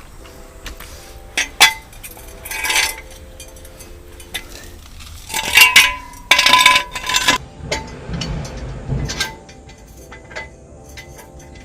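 Metal hand tools and parts clinking and clattering during a DIY engine oil change, with two sharp knocks about one and a half seconds in and a louder spell of clattering around the middle.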